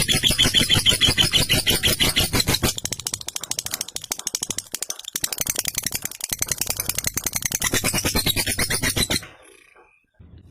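Lovebird doing its long 'ngekek' chatter: a fast, rattling run of many repeated notes that breaks off suddenly about nine seconds in.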